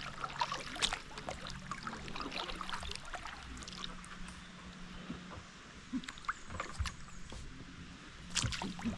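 Kayak paddle strokes in the water: splashes and drips with scattered light knocks on the hull, and a louder cluster of knocks near the end, over a faint steady low hum.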